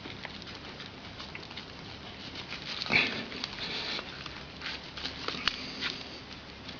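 Small scattered clicks and rubbing noises from handling a tyre plug insertion tool pushed into a tubeless tyre puncture, with one louder short sound about three seconds in.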